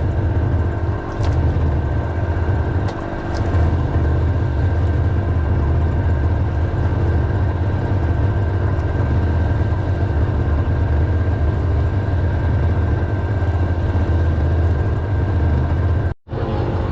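An engine running steadily, a low drone with a thin, steady high whine over it. It cuts out abruptly for a moment near the end.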